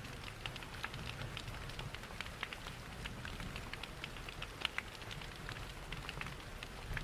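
Ambience mix of rain pattering and a crackling fireplace: many small, irregular crackles and drops over a steady low rumble.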